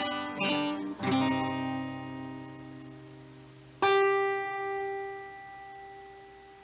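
Acoustic guitar played with a couple of strums, then one plucked note about four seconds in that rings on and slowly fades.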